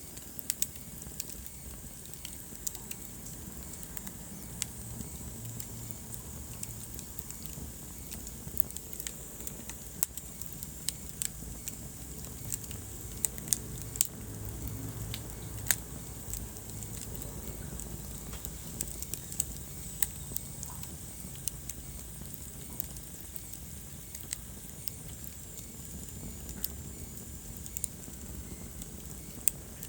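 Wood fire burning in a fireplace and crackling: irregular sharp pops and snaps over a steady low hiss of the flames. A faint high whistle comes twice in the second half.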